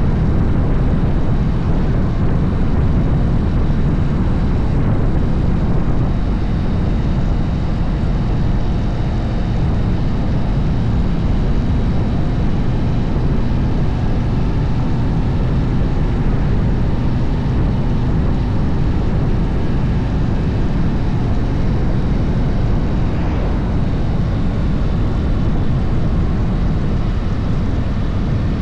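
Harley-Davidson motorcycle on the move, its engine running under a steady, loud low rumble of wind and road noise.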